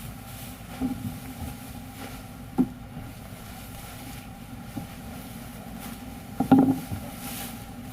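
A glue-cutting machine running with a steady hum, with sharp mechanical knocks about a second in and again near two and a half seconds, and a louder clatter of knocks about six and a half seconds in.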